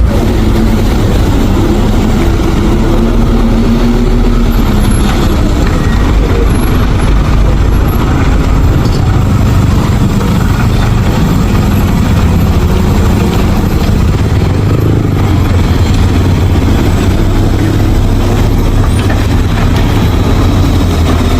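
Truck engine running steadily under load, a loud, continuous low rumble.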